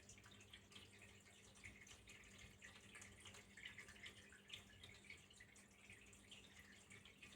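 Faint, steady trickle of water with many small irregular drips and splashes.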